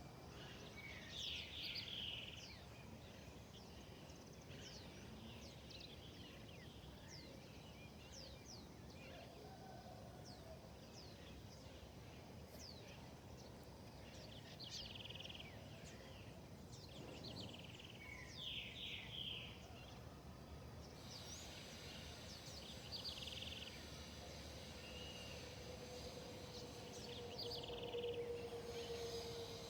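Wild birds chirping and calling, many short quick chirps with louder bursts every few seconds, over a faint outdoor background. A low steady hum comes in near the end.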